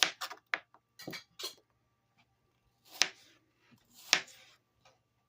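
Kitchen knife cutting apple into bite-size pieces: about six sharp knocks, irregularly spaced.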